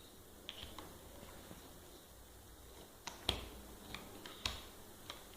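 Toy building blocks clicking and knocking together as pieces are handled and fitted: a few scattered sharp clicks, the loudest two about three and four and a half seconds in.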